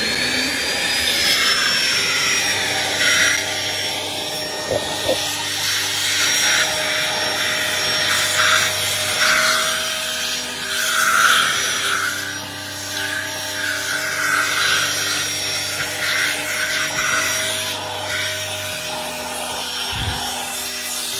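SCIJOY cordless handheld vacuum running: its motor whine rises as it spins up, then holds steady, while the suction noise swells and falls as the nozzle moves over surfaces.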